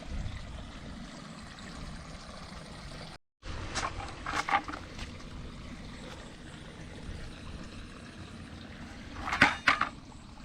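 Running water flowing steadily, with a few short splashes about four seconds in and again near the end.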